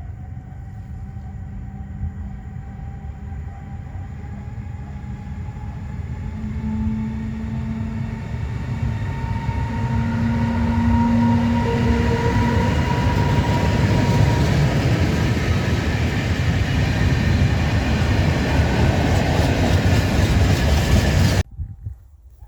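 A train approaching and passing close by. A low rumble with a faint whine, rising slightly in pitch, grows louder over the first dozen seconds. It becomes a loud, steady rush that cuts off abruptly near the end.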